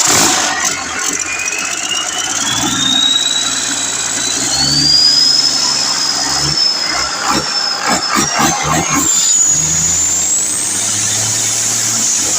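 Cummins 6CTA 8.3-litre turbocharged diesel engine running just after starting, with a high whine that climbs steadily in pitch as the turbocharger spools up. A run of uneven low pulses comes about two-thirds of the way through.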